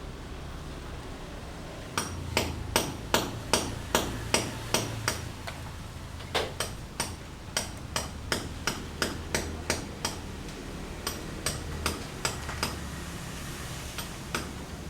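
Regular hammer blows, about two and a half a second, each a sharp knock with a slight ring; they start about two seconds in, break off briefly midway, and end with a couple of single blows near the end.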